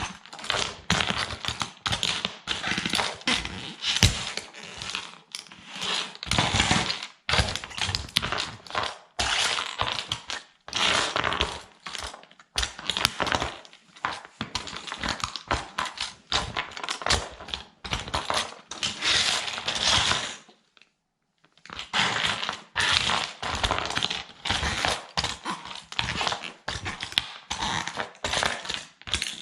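Plastic toy military truck being crushed under a sandal: rapid, irregular cracking, crunching and knocking as it is stepped on and ground down, with a pause of about a second roughly two-thirds of the way through.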